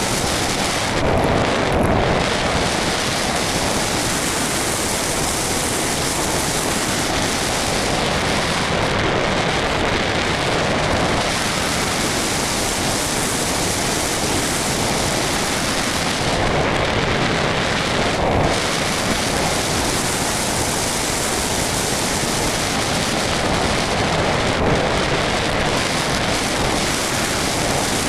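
Steady rushing noise of airflow buffeting the onboard camera's microphone on an RC model plane in flight, swelling slightly a few times.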